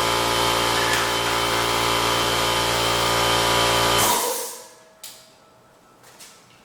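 A motor-driven machine running steadily, then shutting off about four seconds in and winding down. A single sharp click follows about a second later, then a few faint taps.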